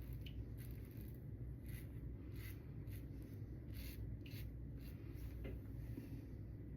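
Double-edge safety razor with a Tatra blade scraping through lathered stubble: a series of short, faint rasping strokes at an uneven pace.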